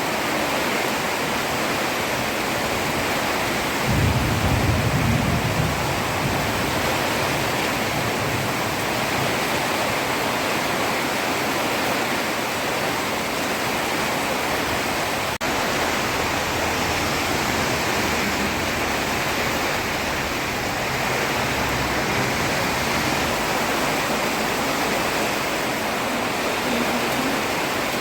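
Heavy rain pouring onto a road: a steady, even hiss of rain. About four seconds in, a low rumble swells for a couple of seconds and fades.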